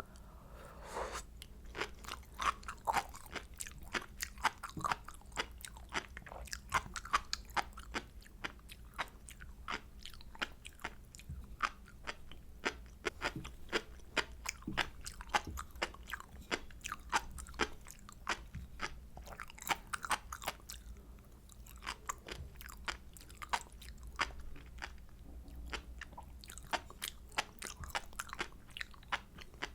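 Close-miked chewing of sea grapes, a run of many small, crisp pops and crunches as the bead-like seaweed bursts between the teeth.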